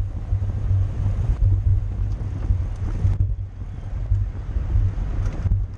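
Wind buffeting the microphone of a camera riding along on a bicycle at racing speed: a loud, gusting low rumble with a rushing hiss above it.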